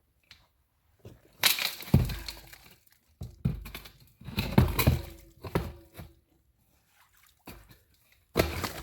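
Large stones being dropped and shifted into a washed-out hole: several separate thuds and scraping clatters with short pauses between them.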